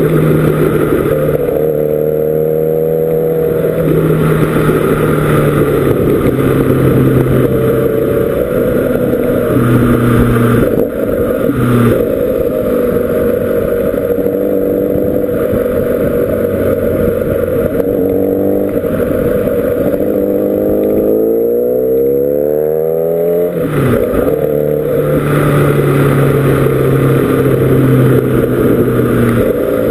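Kawasaki Ninja ZX-10R SE's inline-four engine heard from on board while riding, running steadily with the throttle rolled on and off. The pitch rises near the start and again in a long climb from a little past halfway, then drops sharply about three-quarters of the way through, with a short dip in the middle.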